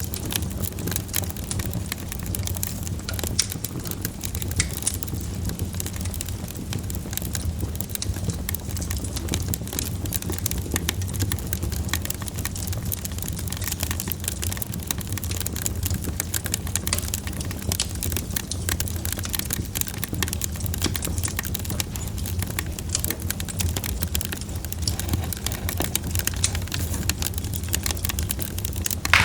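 Wood fire crackling in a fireplace: dense, irregular small pops and snaps over a steady low rumble.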